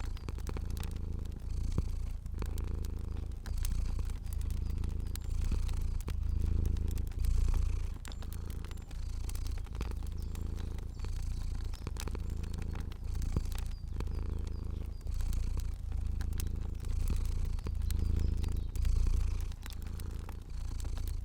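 Domestic cat purring, a low rumble that swells and fades with each breath about once a second, with scattered small sharp crackles of a fire.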